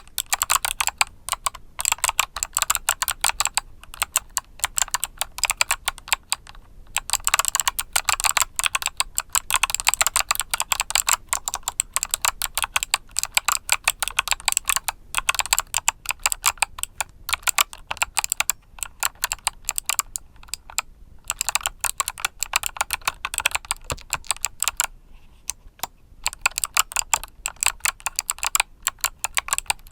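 Typing on a mechanical keyboard with clicky Kailh Box switches: fast runs of sharp key clicks, broken now and then by short pauses.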